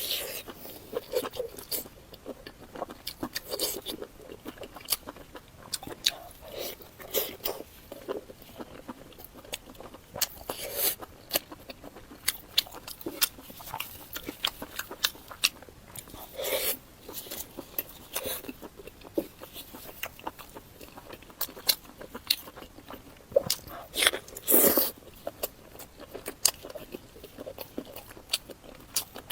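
Close-miked eating: irregular bites, chewing and wet mouth smacks and clicks, with a few louder bites.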